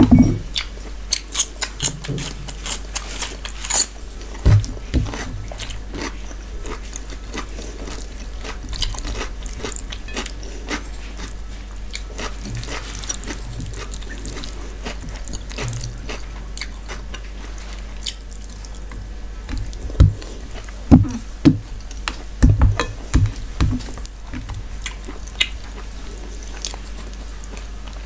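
Close-up chewing, biting and wet mouth smacks of a person eating mutton curry with rice by hand, as ASMR eating sounds. The short clicks and smacks come in a thicker cluster about two-thirds of the way in.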